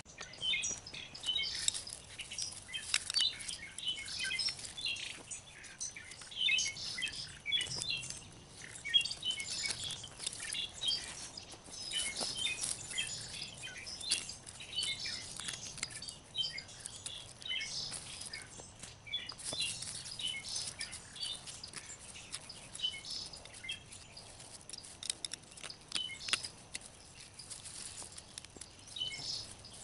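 Small birds chirping throughout, with scattered scrapes and crunches of a shovel digging into garden soil.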